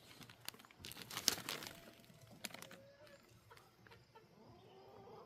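Crinkling and rustling of material being cut with scissors, with a cluster of sharp snips about a second in, then quieter handling noises.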